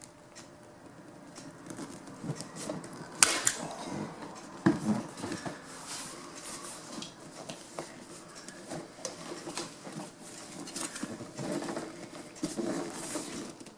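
Hand tools and upholstery material being handled: rustling with scattered clicks and clatter, the sharpest click about three seconds in and another a second and a half later.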